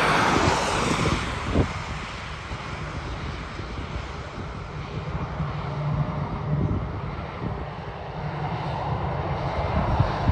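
Jet airliner engines roaring, strongest at the start, easing off, then swelling again toward the end, over a steady low rumble.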